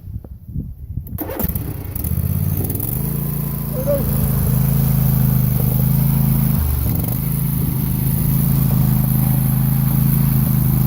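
Lawn tractor engine running, rising in pitch about two to three seconds in, then holding steady, with a brief dip a little past halfway. A few knocks come before the engine.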